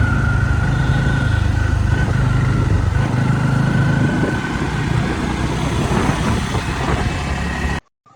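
Bajaj Pulsar N250's single-cylinder engine exhaust while the motorcycle is ridden at low speed, a steady rumble that eases slightly in the second half and cuts off suddenly near the end.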